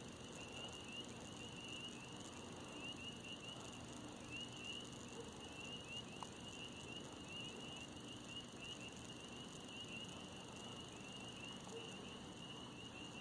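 Insects chirping in a steady, rapid pulsing trill, faint, with a low even background hiss.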